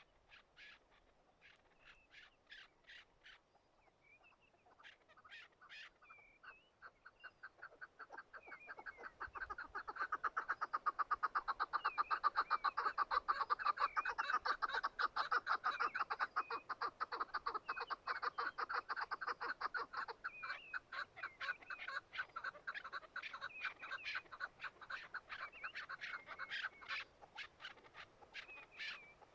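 Chukar partridges calling: scattered clucks build into a long, fast run of loud, rapid clucking, then ease off toward the end, with thin higher chirps mixed in.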